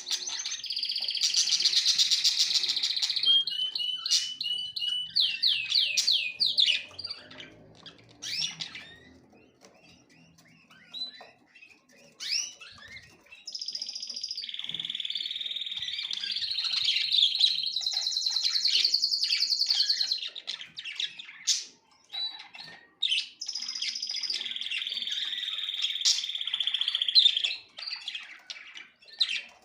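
Small songbirds singing and chirping, with long, fast trilled song phrases lasting a few seconds each and short chirps between them. There is a quieter lull about a third of the way in.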